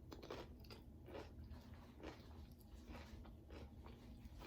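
Faint chewing: soft, irregular mouth clicks and smacks of a person eating.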